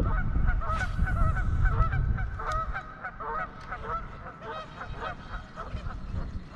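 A flock of birds calling, many short calls overlapping one after another. A low wind rumble on the microphone fades after about two seconds.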